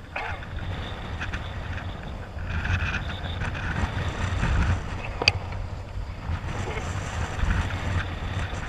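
Wind buffeting the microphone over water, with a rumble that swells in the middle and a single sharp click about five seconds in.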